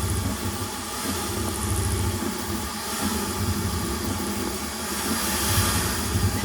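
Custom CrossXY 3D printer running a print: stepper motors and fans making a steady mechanical whir with several held tones, its low end rising and falling as the print head moves.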